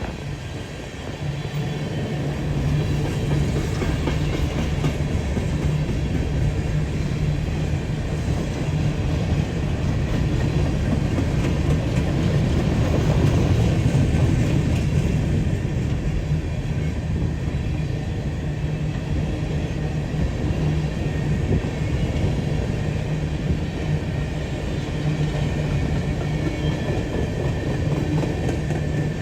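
Freight train with its diesel locomotive running: a steady low engine hum with the rattle of rail cars. It grows louder over the first two seconds.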